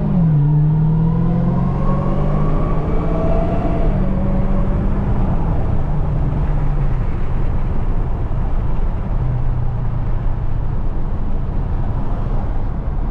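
Dodge Challenger Hellcat Redeye's supercharged V8 pulling under acceleration, its pitch climbing and then dropping at gear changes about a second in and around five seconds in, before settling to a steadier, lower drone at cruise.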